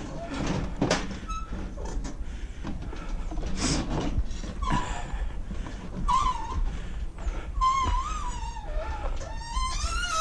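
A few knocks early on, then an animal whining in several wavering, high-pitched cries through the second half.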